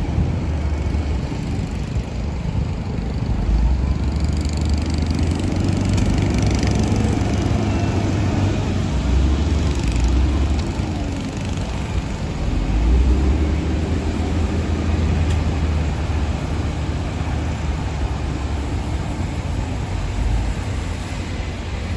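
Shantui DH17-C2 bulldozer's diesel engine running under load, a continuous low rumble that swells and eases, loudest about three and thirteen seconds in.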